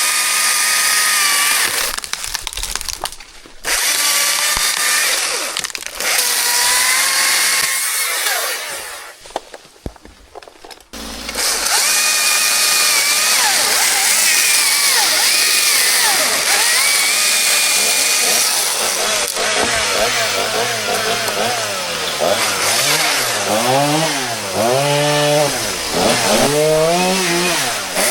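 Chainsaw running and cutting wood, with short drops around 3.5 s and 9 to 11 s. In the last several seconds its pitch repeatedly rises and falls as the saw is revved and loaded.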